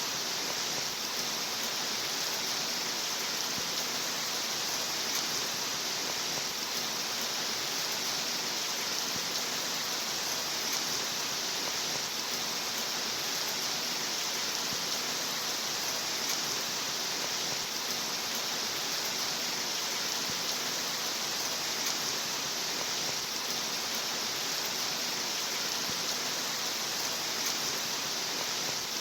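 Steady rain: an even, unbroken hiss that is brightest in the high range.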